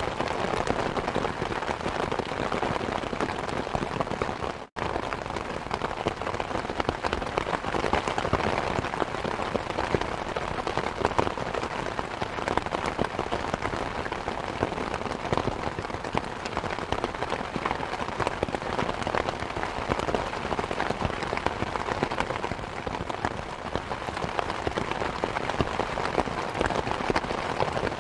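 Steady rain pattering, mixed with the crackle and pops of a wood fire. The sound cuts out for an instant about five seconds in.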